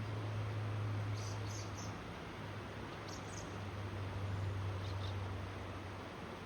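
A small bird gives short high chirps in a few quick groups: three notes about a second in, two around three seconds, and a single one near five seconds. Under them run a steady rush of river water and a low steady hum.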